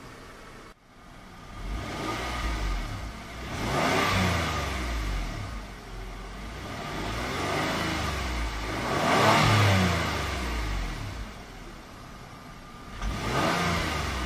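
Kia Sorento V6 exhaust as the engine is revved up from idle and let fall back, two full swells and a third beginning near the end. It has a smooth, low tone.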